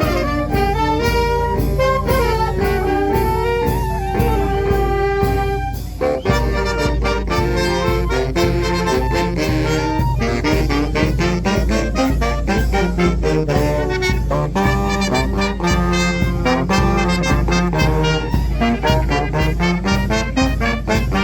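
Fanfare band of brass and drums playing a lively march-like tune: brass instruments carry the melody over steady drum beats, with a short break about six seconds in before the band comes back in.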